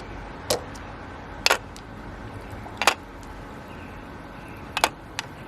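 Mahjong tiles clicking as they are picked up and set down on the table, four separate sharp clacks spread unevenly over a few seconds.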